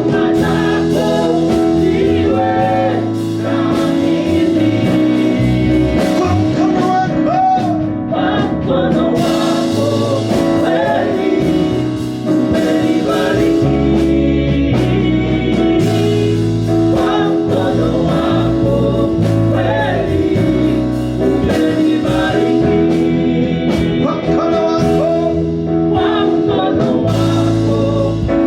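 Gospel praise-and-worship music played live by a band, with voices singing over held chords, a stepping bass line and a steady beat.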